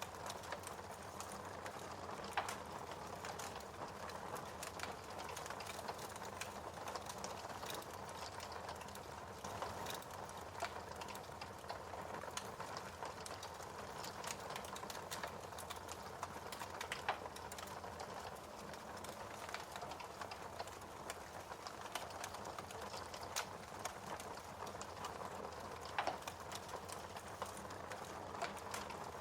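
Wood fire burning steadily, with a constant hiss and irregular sharp crackles and pops, a few of them louder.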